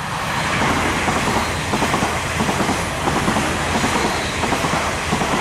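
Class 350 Desiro electric multiple unit passing through the station, a steady rush of wheel-on-rail noise with repeated clicks of the wheels over the rail joints.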